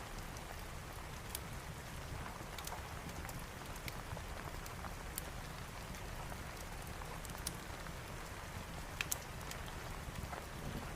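Steady rain with scattered sharp pops and crackles, as from a wood fire, over a low rumbling undertone; two pops land close together about nine seconds in.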